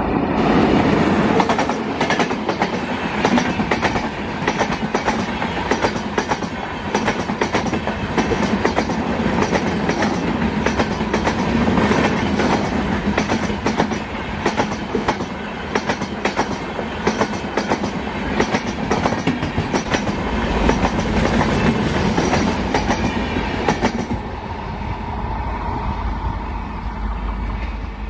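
Express train hauled by an Indian Railways WAP-7 electric locomotive passing at speed: a loud rush of wheel-on-rail noise with the coaches' wheels clicking rhythmically over the rail joints, easing off near the end as the last coach goes away.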